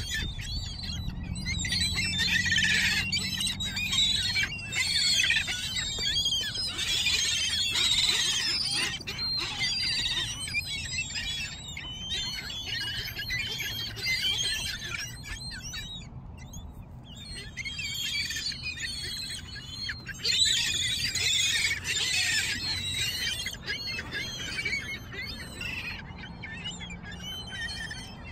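A flock of gulls calling over one another in a dense chorus of short, high calls, which thins out for a moment about halfway through.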